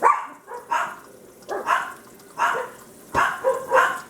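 A dog barking repeatedly, a steady run of short barks about one every half second to second, with a brief low thump about three seconds in.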